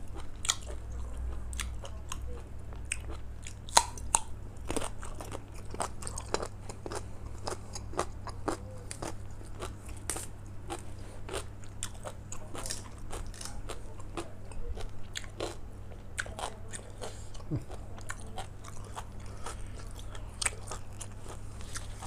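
A person chewing and biting food close to the microphone: a long, uneven run of small crunches and wet mouth clicks, several a second.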